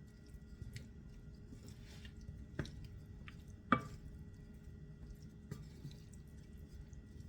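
Kitchen utensil tossing sautéed zucchini, yellow squash and cherry tomatoes in the pan: scattered light clicks and soft wet squishes, with one sharper knock about three and a half seconds in, over a low steady hum.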